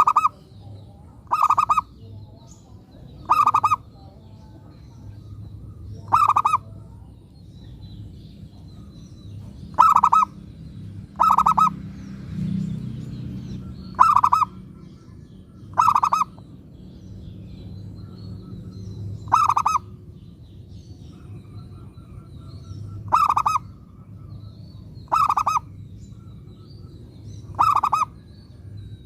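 Zebra dove (perkutut) cooing over and over: about a dozen short calls, each well under a second, coming every two to four seconds.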